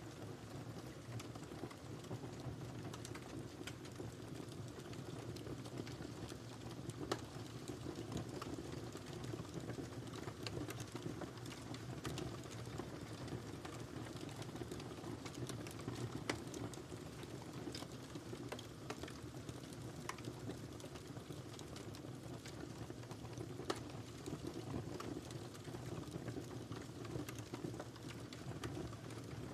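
Wood fire crackling in a fireplace: a steady low rumble with irregular sharp snaps and pops, a few louder pops scattered through.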